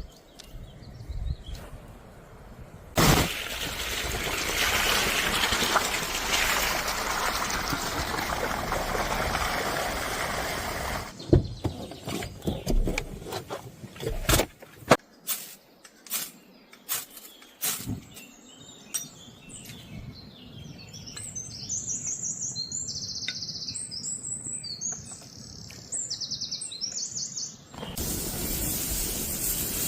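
A loud steady hiss, then scattered sharp clicks and knocks, then birds chirping, then the hiss again near the end.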